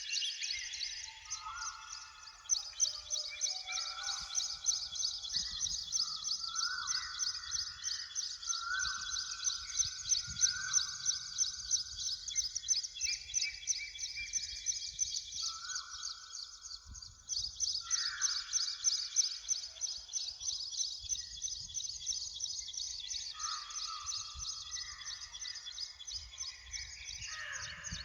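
Birds singing in woodland. A continuous high, rapid trill runs throughout, pausing briefly twice, and overlapping whistled notes of about a second each step up and down in pitch beneath it, over a faint low rumble.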